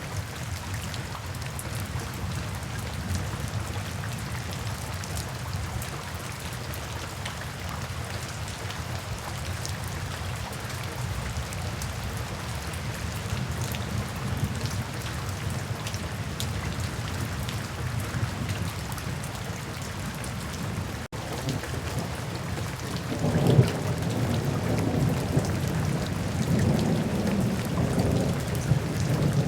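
Steady rain falling on surfaces. Near the end a low rumble of thunder sets in, with one sharp crack at its start.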